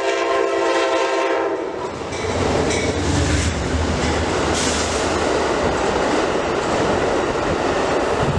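Diesel passenger train's air horn holding a steady chord that stops about two seconds in. Then the locomotive's engine rumbles past directly underneath and the cars rattle and clack by on the rails.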